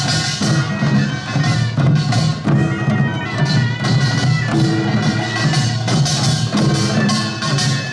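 Korean farmers' music (pungmul): small gongs and drums clanging in a steady, fast rhythm under a held melody line.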